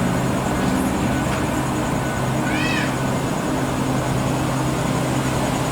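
A steady low hum over a noisy background, with one short high call that rises and falls about two and a half seconds in.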